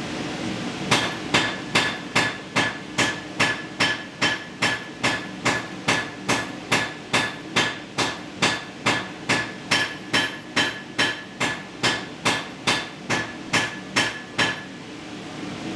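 Hand hammer striking metal on an anvil in a steady forging rhythm, a little over two blows a second, each blow with a short metallic ring. It starts about a second in and stops about a second before the end. A forge exhaust fan runs steadily underneath.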